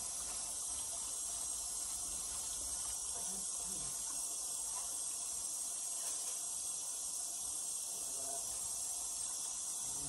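Breaded fish pieces frying in hot oil in a frying pan, a steady sizzle.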